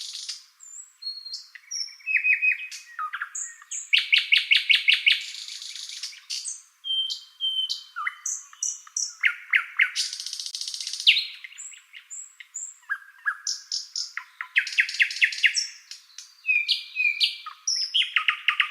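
Songbird singing a varied, continuous song: rapid trills of repeated notes, short high whistled notes and harsh buzzy notes, with hardly a pause.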